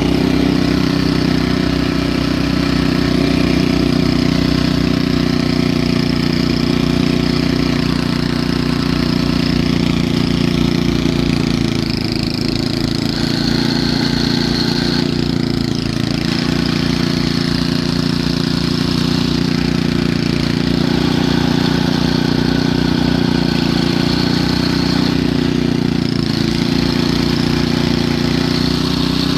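A gasoline snowblower engine running steadily while clearing deep snow.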